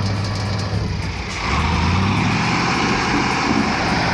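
Heavy truck engine running hard under load, getting louder and harsher about a second and a half in.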